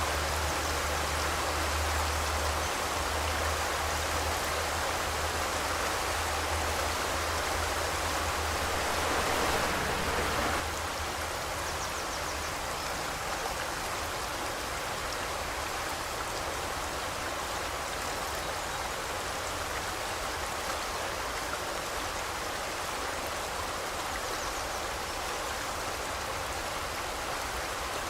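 Forest river flowing steadily over rocks, a continuous rushing of water. About ten seconds in, the level drops a little and a deep rumble underneath fades out.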